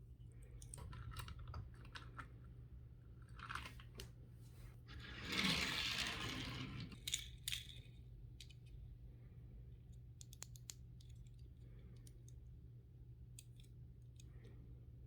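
Die-cast toy car packaging being handled and opened: scattered small clicks and taps, with a louder crinkling rustle of the packaging about five to seven seconds in.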